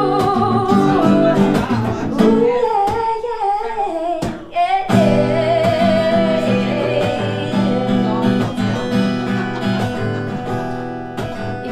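Acoustic guitar strummed and picked, with a voice singing a wavering melody over it. The music thins out briefly about four and a half seconds in, then carries on.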